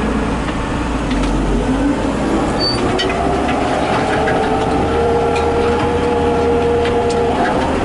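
Massey Ferguson 8160 tractor's diesel engine running under way as it pulls the grain cart, its pitch rising a little two to three seconds in and then holding steady, with light rattles and clicks.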